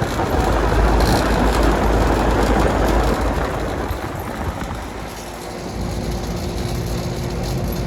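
A 5-ton Lennox central air conditioning condensing unit running: a steady rush of fan and compressor noise with a deep rumble, heaviest for the first three seconds, then a little quieter, with a steady hum joining about six seconds in.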